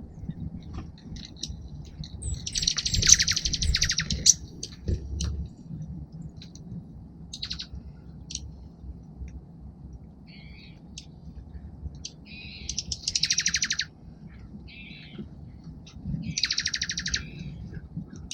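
Small songbirds calling. There are three rapid chattering trills, each about a second long: one near the start, one about two-thirds through and one near the end. Short chips are scattered between them.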